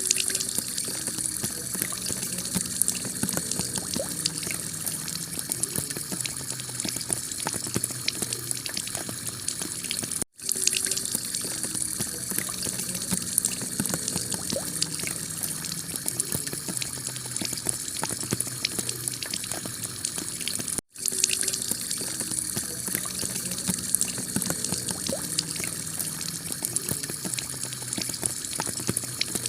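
Heavy rain on a clay-tile roof: a dense, steady hiss with many small ticks of drops striking the tiles. The sound cuts out for an instant twice, about ten and twenty-one seconds in.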